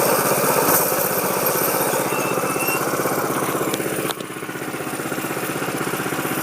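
Dirt bike engine running with a steady pulsing beat. It drops in loudness suddenly about four seconds in, then slowly builds again.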